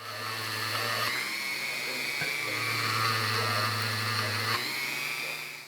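Small electric power tool motor running steadily with a high whine, its tone shifting briefly about a second in and again near the end as if pressed to the work.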